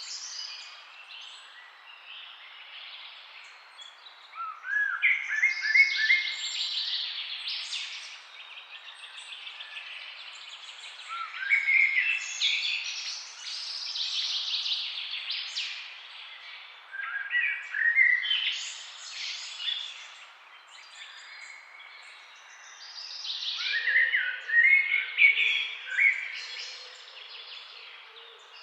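Songbirds singing in the trees: a phrase of quick rising notes running into a fast trill comes back about every six seconds, with scattered chirps in between.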